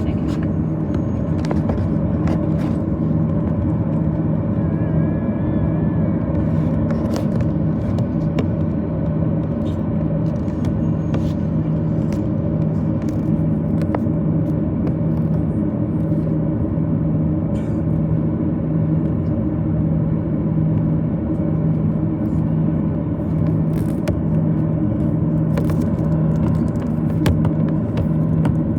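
Steady cabin hum of a Boeing 737-800 on the ground before takeoff, its CFM56 engines at low thrust with the cabin air running. The level holds even with no spool-up, and a few faint clicks and rattles come from the cabin fittings.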